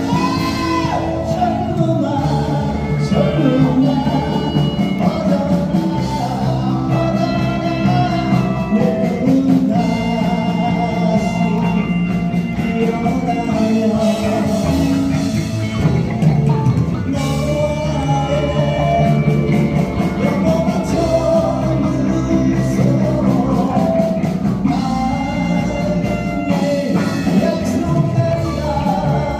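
Live rock band playing a song, with a sung melody over electric guitar, bass and drum kit.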